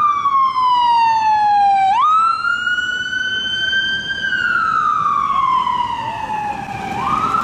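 Emergency-vehicle siren wailing: a single tone that holds high, slides slowly down, then sweeps quickly back up, twice over.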